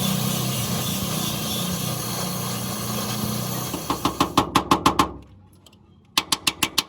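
A steady low machine hum with hiss, then two quick runs of rapid hammer blows on sheet metal, about seven strikes a second, each run lasting about a second.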